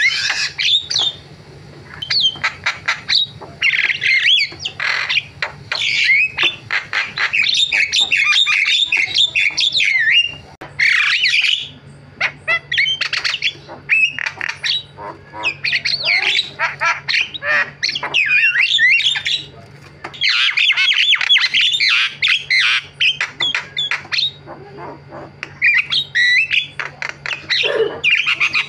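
Javan myna singing a varied, chattering song of harsh squawks and rapid chirps, delivered in bursts several seconds long with short pauses between them.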